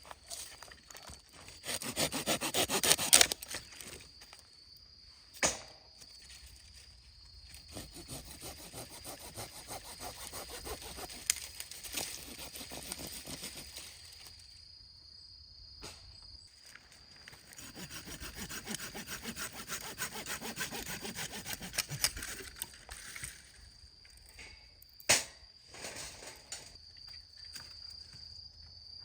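A hand saw cutting through wood in several spells of quick strokes, with pauses between them and a few sharp single knocks; the first spell, near the start, is the loudest.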